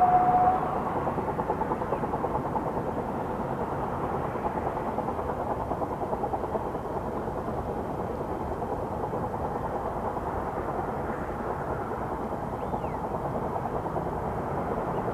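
A narrow-gauge steam train on the move. A held whistle note cuts off just after the start, then the train runs on steadily with a rapid beat.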